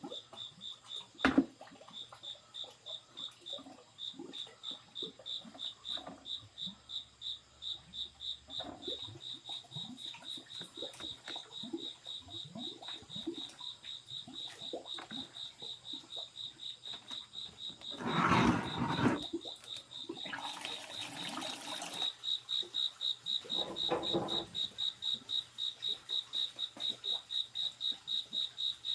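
An insect chirping in a steady, high, pulsed rhythm of several pulses a second, with a brief louder noise a little past the middle.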